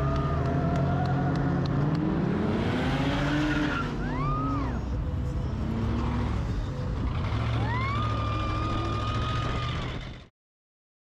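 Car engines running, with one revving up and back down and a high whine that rises, holds and falls twice. The sound cuts off suddenly near the end.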